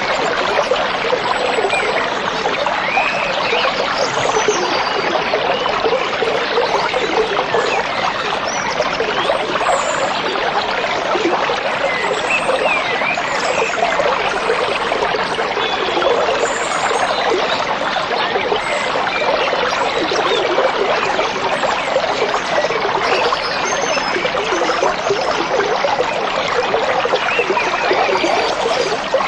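A stream trickling and burbling steadily, with short faint bird chirps now and then.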